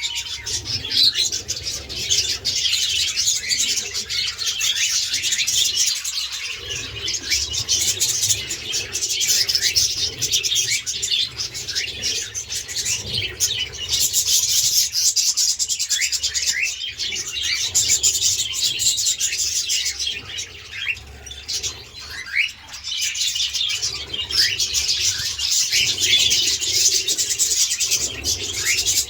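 Caged budgerigars and cockatiels chattering and chirping non-stop, a dense warbling flock sound with many short rising whistles.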